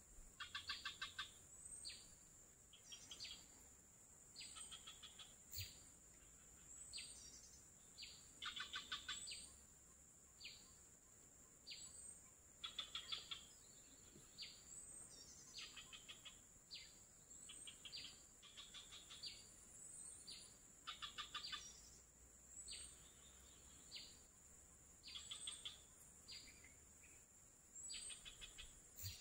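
Faint birds calling over and over in short trilled phrases, one every second or two, over a steady high whine.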